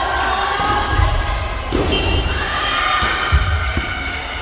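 Soft volleyball play on a gym court: thuds of the ball and players' feet on the floor, with one sharp hit of the ball, under players' shouts and calls.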